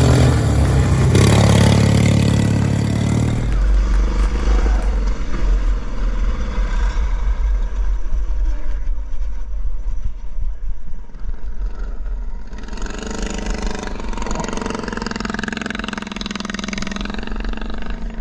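Petrol engine of a racing vehicle running, revving up more strongly from about twelve seconds in, after a louder stretch that changes abruptly about three and a half seconds in.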